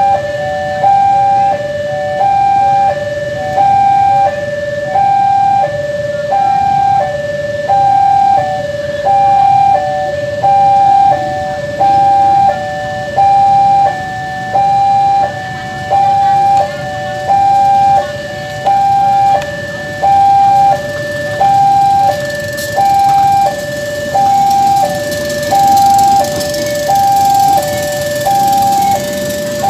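Railway level-crossing warning alarm sounding a steady two-tone high-low electronic signal, about one pair of tones a second, warning that a train or locomotive is about to pass, over a low steady rumble.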